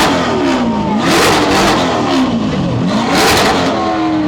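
Corvette V8 revved hard several times, the engine pitch climbing and falling with each blip about once a second, the exhaust loud at every peak.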